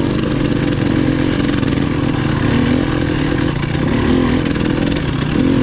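Dirt bike engine running at low, fairly steady revs while riding slowly, its pitch wavering slightly up and down.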